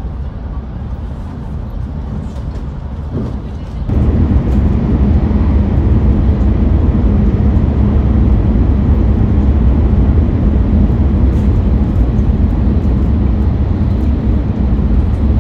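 Cabin noise of a Hayabusa Shinkansen bullet train running at speed: a steady low rumble that suddenly gets louder about four seconds in and stays there.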